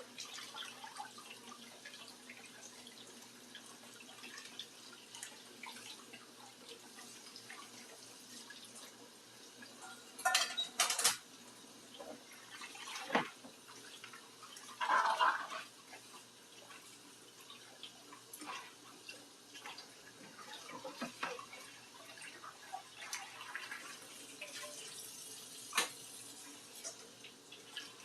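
Dishes being washed in a kitchen sink: tap water running and dripping, with dishes and utensils knocking together, loudest a few times around the middle.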